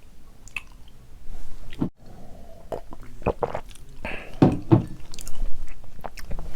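Close-miked chewing of spicy buldak carbonara noodles with Spam, with wet mouth smacks and short clicks scattered throughout.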